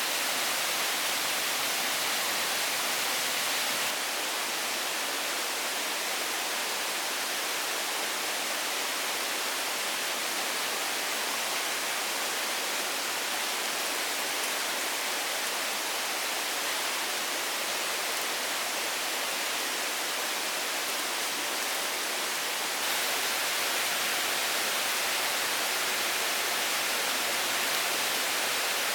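Steady rushing, hiss-like noise with no distinct events. It drops slightly about four seconds in and comes back up near the end.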